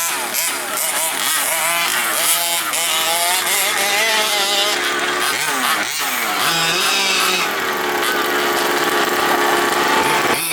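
Gas-powered large-scale RC vehicles' small two-stroke engines revving, the pitch rising and falling repeatedly as the throttle is worked, held higher for a few seconds past the middle.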